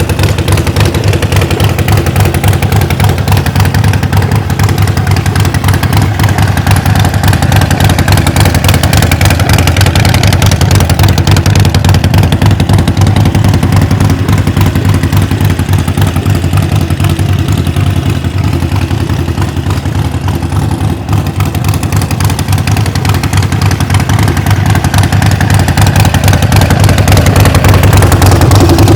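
Harley-Davidson Sportster XL 1200 Forty-Eight's air-cooled 1200 cc V-twin engine running steadily near idle, getting a little louder near the end.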